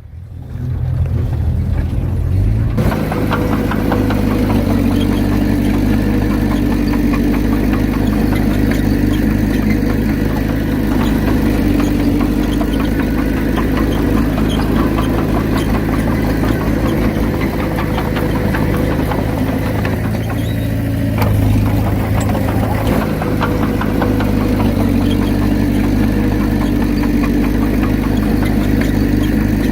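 Heavy earthmoving diesel engine running steadily under work. It comes in loud about three seconds in, with a fast rattle over its low drone.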